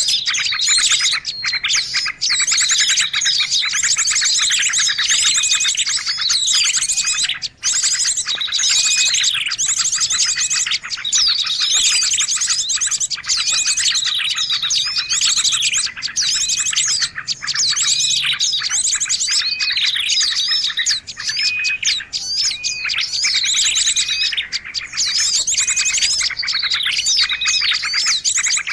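A dense, continuous chorus of many small songbirds chirping and twittering at once, with quick overlapping trills and sharp calls. It is a bird-lure (pikat) recording made to draw small birds in.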